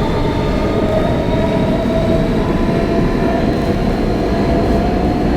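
An R160B subway car with Siemens propulsion running between stations, heard from inside the car. There is a steady rumble of wheels on rail, and over it the even whine of the electric propulsion in several pitches.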